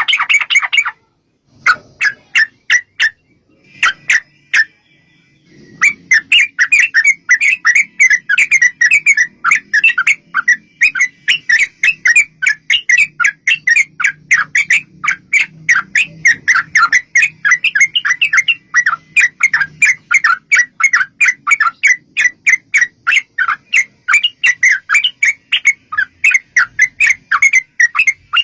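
Yellow-vented bulbul (trucuk) chattering: a few separate sharp notes at first, then from about six seconds in a long, unbroken rapid series of several notes a second.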